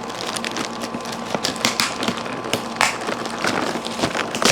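Cardboard box being handled and packing tape peeled off, an irregular run of crackles, scrapes and small clicks.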